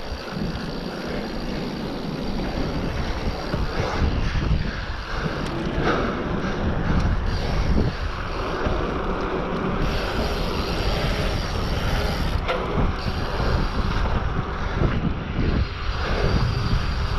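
Wind buffeting the microphone over a continuous low rumble, with a few faint knocks scattered through.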